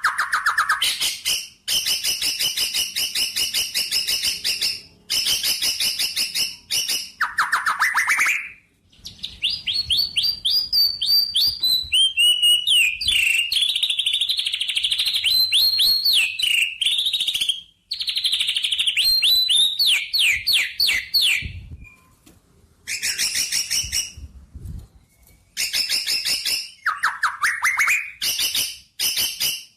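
A songbird singing long, fast trilled phrases of rapidly repeated chirping notes, with brief pauses between phrases.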